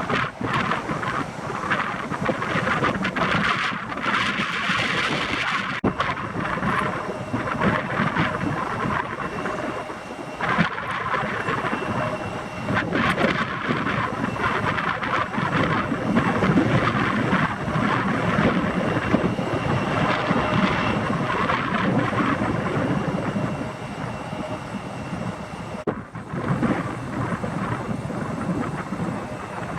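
Aircraft engines running continuously with a faint steady whine, mixed with gusty wind buffeting the microphone.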